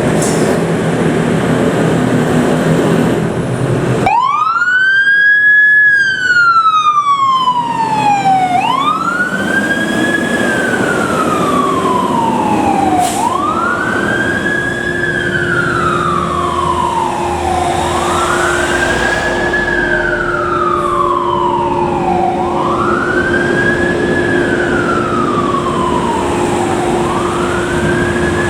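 Fire truck siren on a wail: repeated sweeps that rise quickly and fall slowly, about one every four and a half seconds. It follows a few seconds of steady vehicle rumble that cuts off abruptly about four seconds in. A steady hum joins underneath about halfway through.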